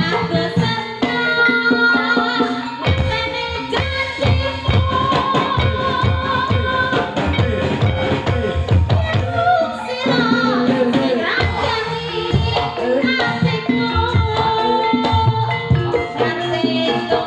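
Live dangdut-style gamelan music for an ebeg (jaranan) dance: hand drums keeping a steady beat under pitched melodic instruments.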